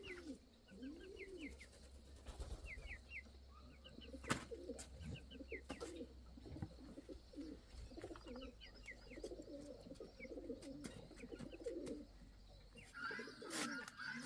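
Pigeons cooing in repeated short rounded notes, with small birds chirping higher up and a few sharp clicks.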